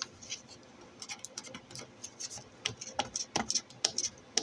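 Hands handling coin packaging: irregular small clicks and taps, sparse at first and busier past the middle, with a few louder clicks.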